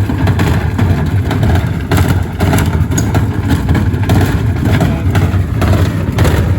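Gorenje washing machine running with heavy bricks in the drum: a loud, steady low rumble with irregular knocks and bangs throughout.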